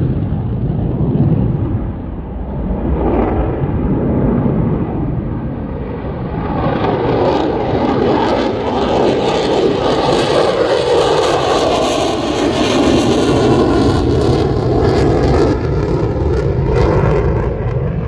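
F-35 fighter jet engine running loud at takeoff, growing fuller and brighter about six seconds in, with the shifting, sweeping tone of a jet passing by.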